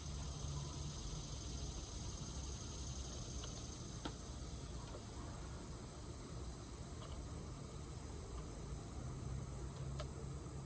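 Insects calling in a steady high-pitched trill over a low outdoor rumble, with a couple of faint clicks.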